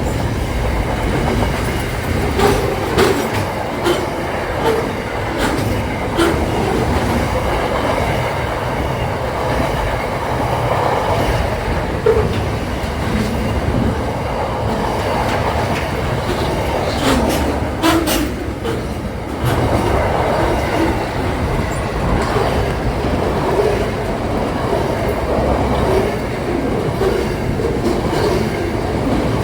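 Train running along the track: a steady rumble of wheels on rails, with clicks now and then as the wheels cross rail joints.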